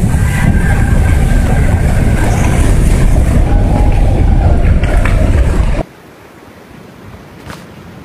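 Loud rumbling rush of a large mass of snow sliding off a building's roof, which cuts off suddenly about six seconds in.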